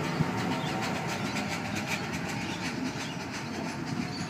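Sydney electric suburban passenger train pulling out of the station, a steady running noise of wheels on the rails with faint regular clicking.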